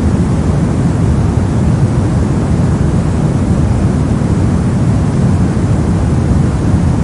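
Steady synthetic soft noise, deep and rumbly rather than hissy, with most of its energy in the low range. It is a constant wash with no rhythm or events.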